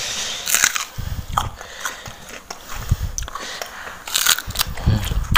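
Raw unripe banana being bitten and chewed close to the microphone: a run of crunchy bites and irregular chewing clicks, with dull low thumps about a second, three seconds and five seconds in.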